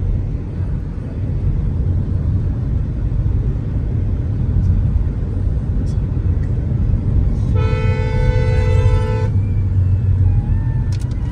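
Steady low rumble of a car driving on the road, with a vehicle horn sounding once for about a second and a half, about two-thirds of the way through.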